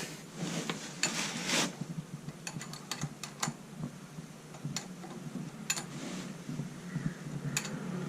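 Scattered metallic clicks and clinks of tools and battery cables being handled while wiring to the starter motor, with a short scraping rustle about a second in.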